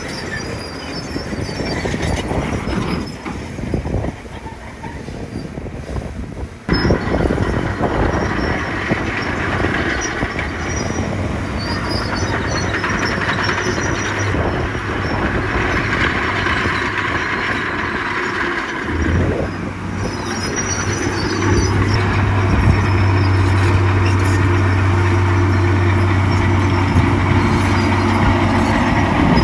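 Komatsu bulldozer working: diesel engine running with its steel tracks squealing and clanking. The sound gets suddenly louder about a quarter of the way in, and a steady low engine drone comes in about two-thirds of the way through.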